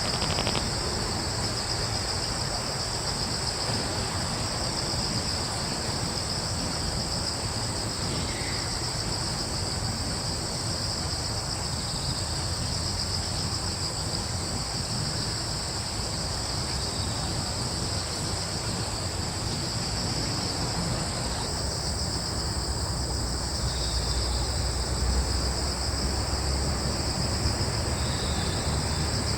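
A continuous chorus of crickets: a steady, high-pitched trill that does not break, over a low rumble of breeze. A few faint short chirps come through in the second half.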